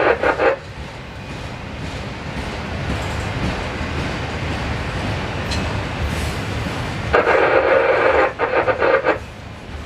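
Freight train of autorack cars rolling past, a steady low rumble and rattle of wheels on rail. A loud crackling burst comes briefly at the start and again for about two seconds some seven seconds in.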